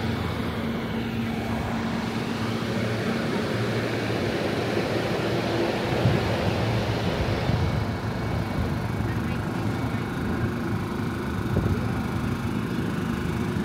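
Steady low mechanical hum of The Ghan passenger train standing at the platform, its engines idling, over outdoor background noise.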